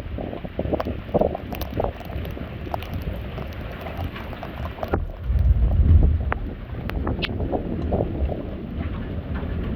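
Thunderstorm wind buffeting the microphone, with scattered sharp ticks of rain and a louder low rumble that swells about five seconds in and fades over a second or so.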